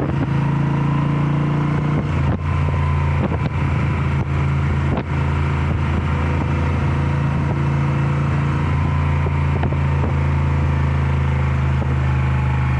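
Moto Guzzi V7 Special motorcycle's air-cooled transverse V-twin running at a steady pace under way, with brief dips about two and five seconds in.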